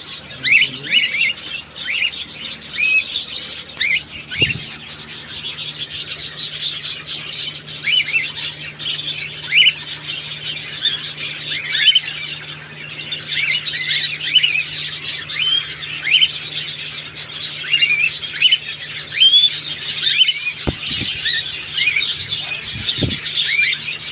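Many cockatiels in an aviary chirping and calling continuously, short rising and falling whistles overlapping one another, over a steady low hum.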